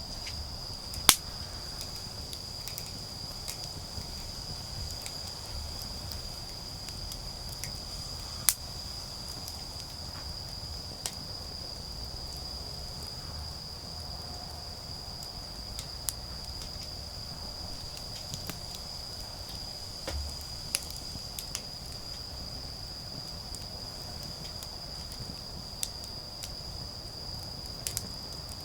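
A steady, high-pitched chorus of autumn insects, with a few sharp pops from a wood bonfire, the loudest about a second in and again around eight seconds.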